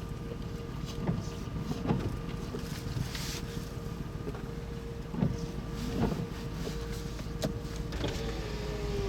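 Outdoor tornado warning siren sounding one steady tone that dips slightly in pitch near the end, over the low rumble of a vehicle, with a few brief thumps.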